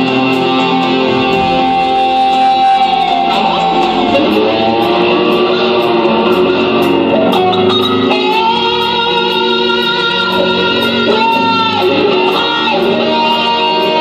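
Instrumental rock played live: an electric lead guitar holds long notes, bending and sliding between them, over a band backing.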